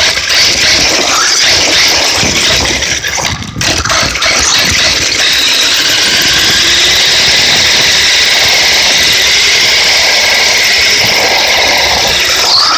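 Radio-controlled monster truck driving, its motor and drivetrain whining. It is uneven at first with a brief drop-off, then settles into a steady high whine for the second half.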